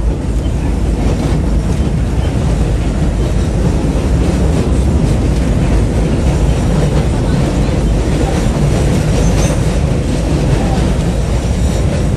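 Passenger train carriages running along the track, a loud steady rumble of wheels on rail, with a faint high wheel squeal about nine seconds in.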